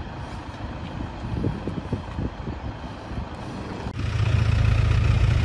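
Engine noise: an uneven low rumble with scattered knocks, then about four seconds in a louder, steady low engine hum cuts in abruptly.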